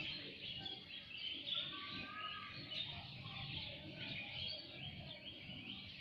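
Birds chirping and twittering: a steady run of short, high chirps, with a couple of brief whistled notes about two seconds in.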